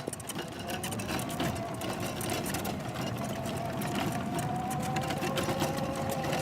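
Golf cart under way, its motor giving a steady whine that climbs slightly in pitch, over a low rattly rumble from the cart.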